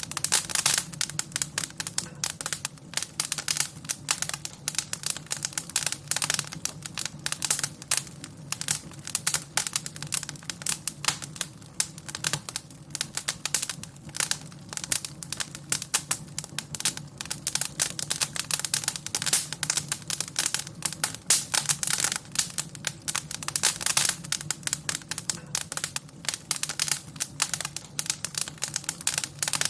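Wood fire crackling in a fireplace: a dense, irregular stream of small pops and snaps, some louder than others, over a steady low rumble.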